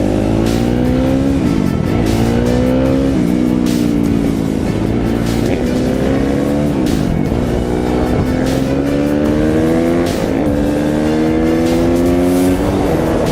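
A small off-road vehicle engine accelerating hard through its gears: the pitch rises, then drops sharply at each shift, about five times. Music plays underneath.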